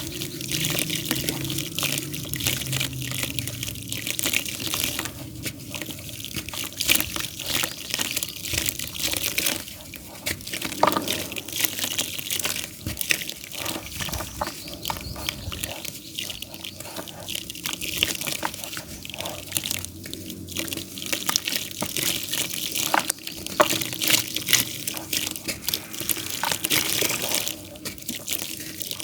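Damp pure clay dirt crumbling, a dense irregular run of small crackles and crunches.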